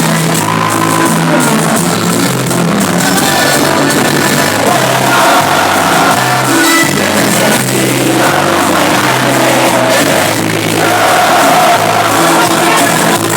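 Live band music with a singer and crowd voices, loud and continuous, with a steady bass line changing notes about once a second.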